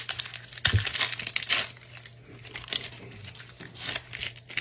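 Foil trading-card pack wrapper crinkling as it is torn open and handled, with a single knock about three-quarters of a second in.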